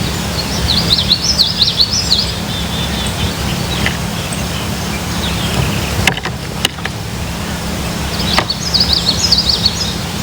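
A wild songbird sings two short phrases of rapid twittering notes, about a second in and again near the end, over a steady low rumble.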